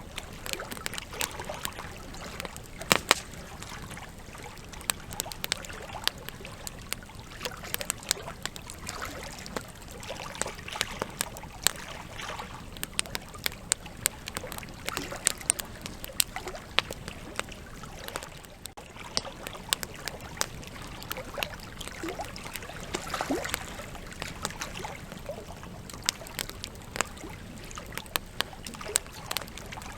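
Wood campfire crackling: irregular sharp pops and snaps over a steady hiss of burning, with a couple of louder pops about three seconds in.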